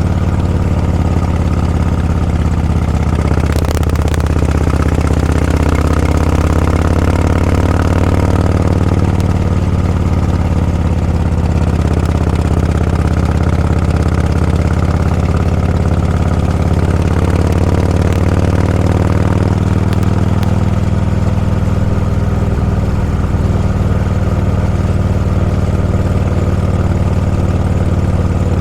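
Vehicle engine running steadily while under way, with a deep, even engine note. Higher engine notes rise and fall in pitch a few times over it.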